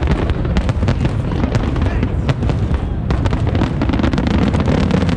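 Fireworks going off: a dense run of rapid crackles and pops over a continuous booming rumble.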